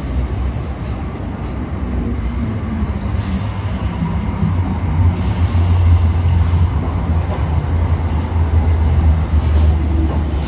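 ScotRail electric multiple unit arriving at an underground platform: a low rumble of wheels and running gear that grows louder as the carriages pass close by, loudest in the second half.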